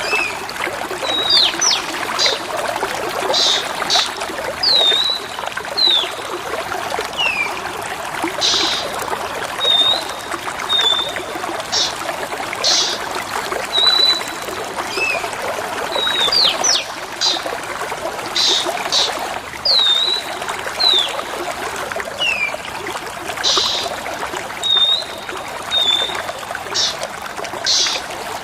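Water trickling steadily, with short high bird whistles, down-slurred notes and brief chirps over it. The bird calls repeat in the same order about every 15 seconds, as a looped recording.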